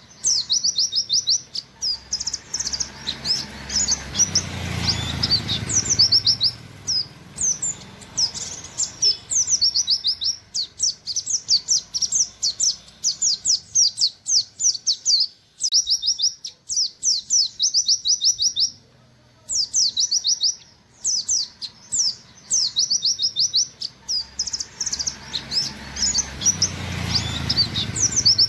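Oriental white-eye (pleci, buxtoni race) singing its rapid 'nembak' song: fast strings of high, downward-sweeping 'wit wit' notes in long runs broken by a few short pauses. A faint low rumble comes and goes twice behind it.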